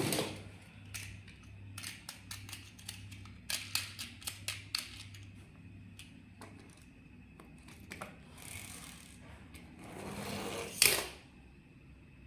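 Hands handling a plastic toy and its packaging: runs of small clicks and taps, then a longer rustling scrape about eight seconds in that ends in a loud snap near the end.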